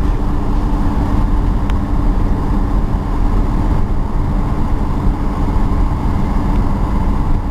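Steady low rumble of a 1955 Ford Thunderbird on the move: wind, tyre and engine noise heard from the car.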